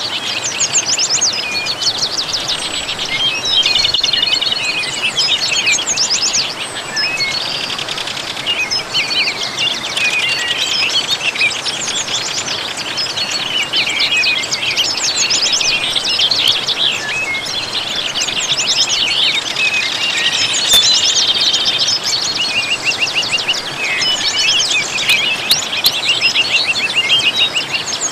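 Many small birds chirping and twittering in a dense, continuous chorus over a steady rush of waterfall water.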